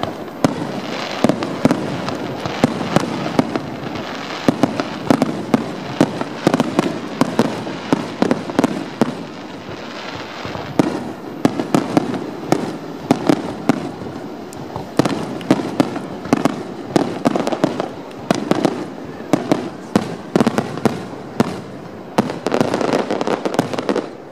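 Aerial firework shells bursting in a continuous barrage: many sharp bangs in quick succession, overlapping one another.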